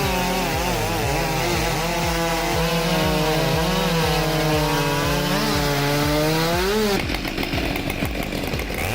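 Two-stroke chainsaw running at high revs under load in a cut, its pitch wavering as the chain bites. The sound changes about seven seconds in.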